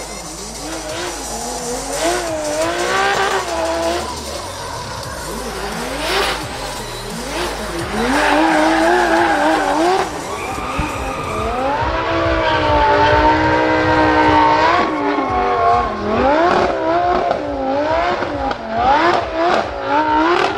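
Drift car engine revving up and down again and again, held at high revs for a few seconds past the middle, over the screech of tyres sliding.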